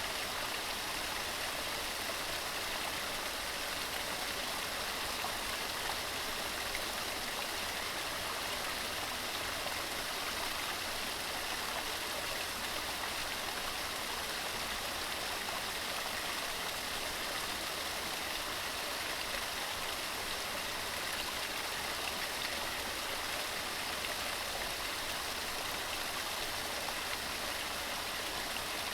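Waterfall: water tumbling over mossy rocks in a steady, unbroken rush.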